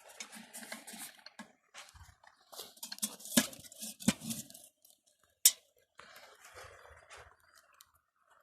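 Clinks, knocks and scrapes of a kettle being handled and settled on stones over a campfire, with one sharp knock about five and a half seconds in.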